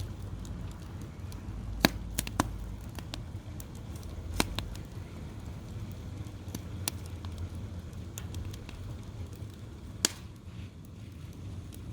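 Wood fire crackling, with a handful of sharp pops from the burning logs, the loudest about two, four and ten seconds in, over a low steady rumble.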